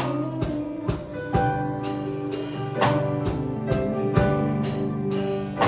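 Live worship band playing an instrumental passage: a drum kit keeping a steady beat under sustained chords, with no singing yet.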